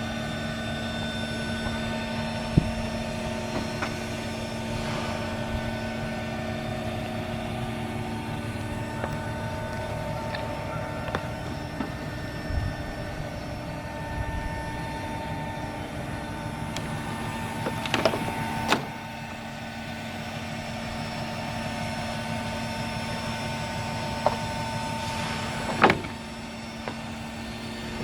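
Steady machinery hum, with scattered small knocks and two louder sharp knocks in the second half, typical of shipbuilding work.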